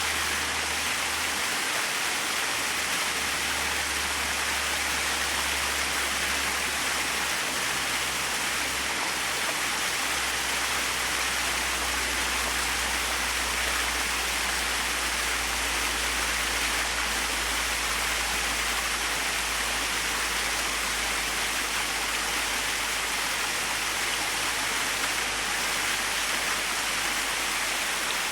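Small waterfall splashing and running steadily, an even rushing hiss of falling water.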